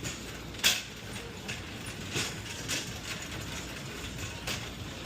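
Metal delivery carts rattling and clanking as they are pushed, with a sharp metallic knock about a second in and several lighter knocks after it.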